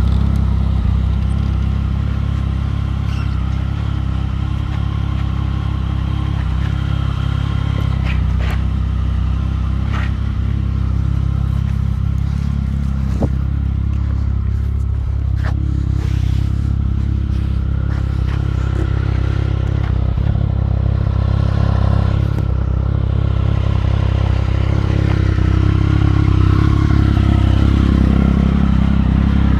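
Motorcycle engine running steadily through its exhaust, with a few light clicks and a slight rise in level near the end.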